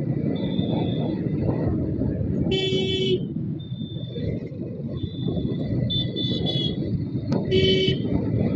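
Wind and road rumble on the microphone of a moving motorcycle, with a vehicle horn honking twice in short blasts, about three seconds in and again near the end.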